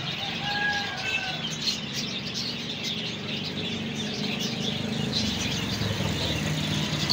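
Small birds chirping rapidly and continuously, with a short whistled call about half a second to a second in, over a steady low hum.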